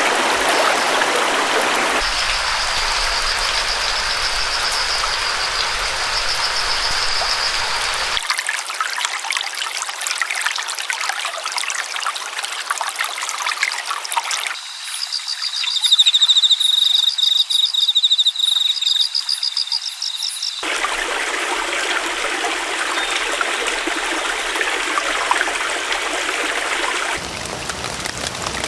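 Running water of a stream, in a series of abruptly spliced recordings. Two of them carry high, rapid trilling calls over the water.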